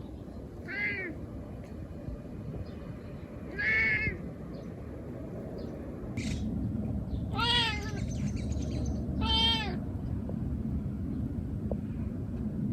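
A domestic cat meowing at birds: four short calls that rise and fall, the last two louder and longer. A low rumble swells underneath from about halfway through.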